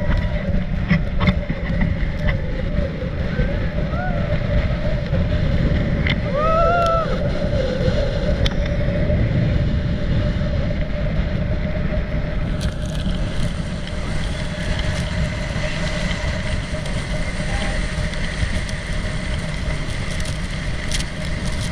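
Motorboat engine running steadily at speed, with heavy wind rumble on the microphone and water noise. A few short voice calls come in the first seven seconds.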